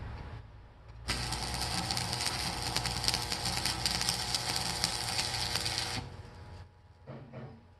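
Electric welding arc crackling and sizzling steadily for about five seconds, starting about a second in and cutting off suddenly.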